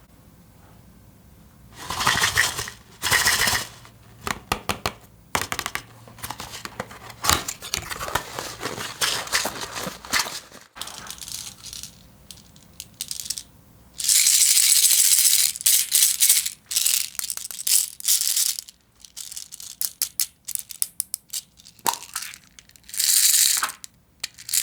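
Slime being squished and poked by hand, with rapid sticky clicks and pops and several loud bursts of crackling, about two seconds in, from about 14 to 16 seconds, and near the end.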